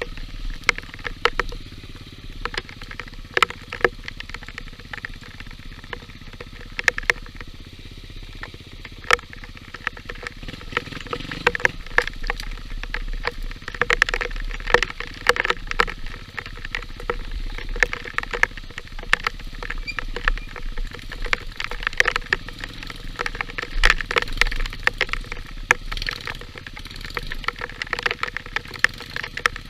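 Yamaha XTZ125 trail motorcycle's single-cylinder four-stroke engine running while riding a wet dirt trail, with frequent sharp taps and clatters throughout.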